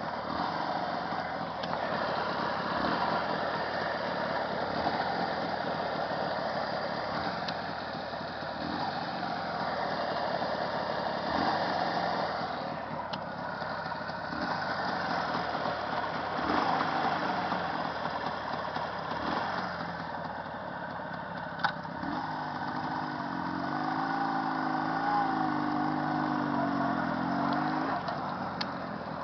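Jawa 638's warmed-up two-stroke twin engine running, its note swelling and easing off several times as the throttle is worked. Near the end it settles into a clearer, steadier hum that wavers slightly in pitch.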